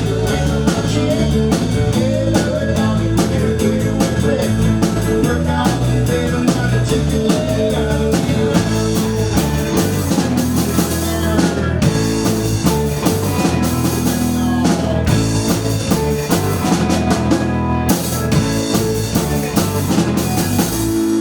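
Rock band playing live, with a drum kit keeping a steady beat under guitar and bass.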